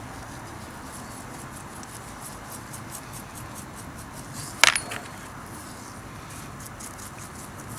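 A single sharp metallic clink, like a small metal part or tool being set down or knocked, with a brief ring, a little over halfway through. Under it are faint, regular scratching strokes and a low steady hum.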